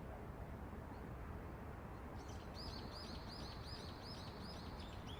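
A steady low city rumble. About two seconds in, a small bird sings a quick run of repeated high, arching notes, about four a second.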